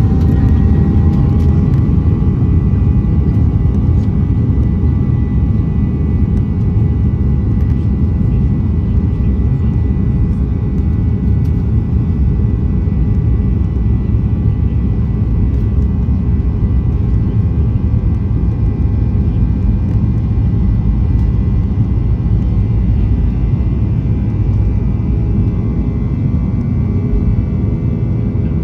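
Boeing 737-800's CFM56 turbofan engines running at high thrust, heard from inside the cabin beside the engine: a loud, steady roar with a high whine that settles at a steady pitch right at the start, typical of a full-thrust takeoff.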